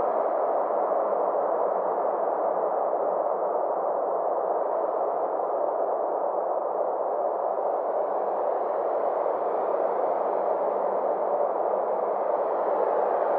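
Synthesized 'space sound' ambience: a steady, muffled noise drone with faint high tones slowly sweeping up and down over it.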